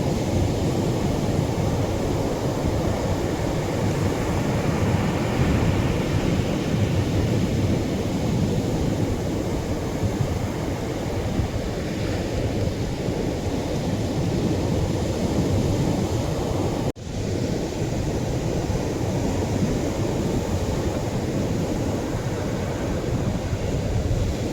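Atlantic surf breaking on a beach: a steady, heavy rumble of waves, mostly deep, with no separate wave crashes standing out. The sound drops out for an instant about seventeen seconds in, then carries on.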